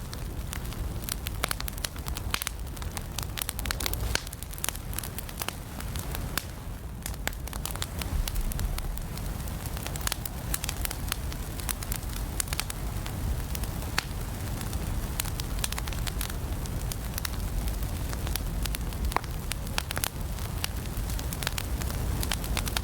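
Wood fire burning in an indoor fireplace, with dense, irregular crackles and pops over a steady low rumble of the flames.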